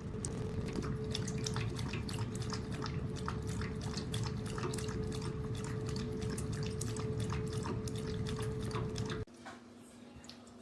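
Electric dog water fountain running: a steady pump hum under irregular dripping and splashing of water. About nine seconds in it cuts to a quieter, lower hum.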